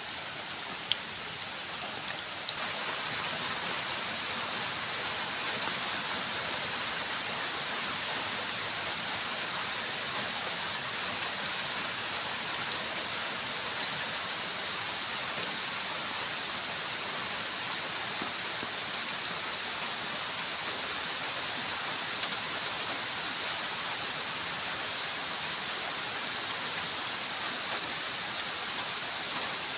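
Steady rain falling, an even hiss with a few sharp drop ticks; it gets a little louder about two and a half seconds in.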